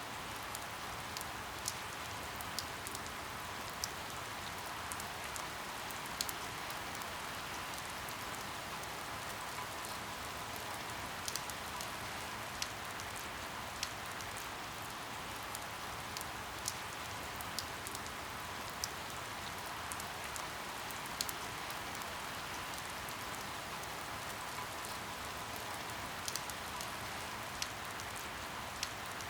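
Steady rain falling, with individual drops ticking sharply at irregular intervals over the even hiss.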